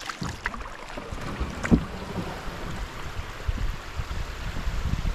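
Wind buffeting the microphone over open water, with scattered knocks; the loudest knock is a sharp one a little under two seconds in.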